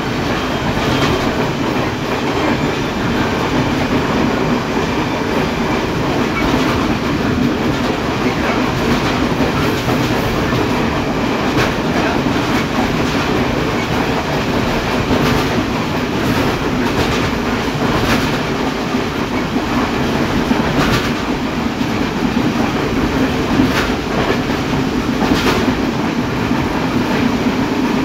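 Train running along the track, heard from inside the guard's compartment at the rear: a steady rumble and rattle of the carriage, with irregular sharp wheel clicks over the rail joints.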